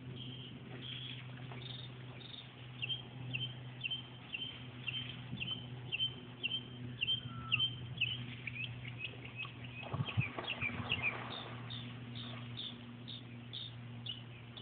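A bird giving a long series of short, high chirps at about two a second, over a steady low hum, with a brief rustle about ten seconds in.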